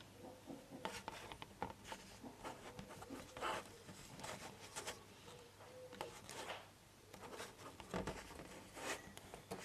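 Plastic model-kit sprues being handled: light, irregular rubbing and scraping with short clicks as the parts frames are moved about.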